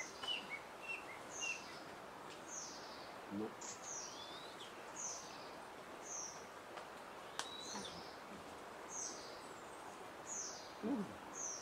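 A songbird calling in the forest: a series of short, high, thin down-slurred notes about once a second, over a steady background hiss, with brief faint murmurs of voices.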